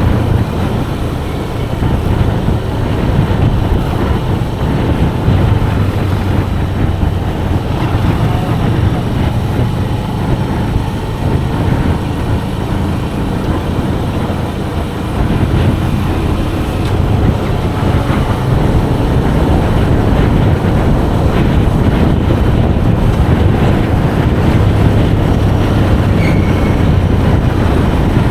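Manual-transmission motorcycle being ridden: its engine runs steadily under a broad rush of wind over the microphone, with the engine note swelling and easing slightly a few times.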